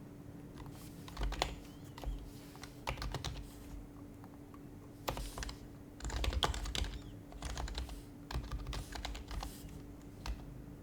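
Typing on an HHKB Professional HYBRID Type-S keyboard, its Topre keys giving soft, muffled clicks in irregular bursts with short pauses between them. A faint steady hum lies underneath.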